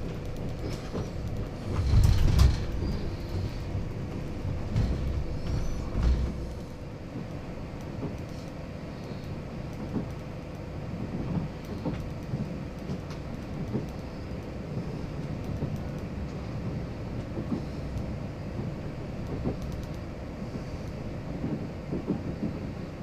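Train running on the rails: a steady low rumble with a held tone and scattered clicks, louder for a moment about two seconds in and again around six seconds.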